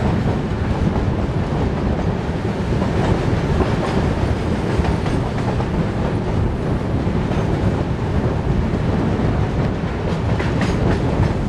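Indian Railways Shatabdi Express passenger coach running at speed, heard through an open door or window: a steady rumble of wheels on rail with rushing air. It passes close alongside a line of covered freight wagons, and a few faint clicks come near the end.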